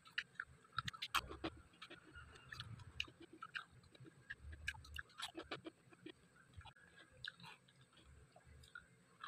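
Close-miked chewing of dry-fried pork: wet smacks and clicks of the mouth, coming less often in the last few seconds.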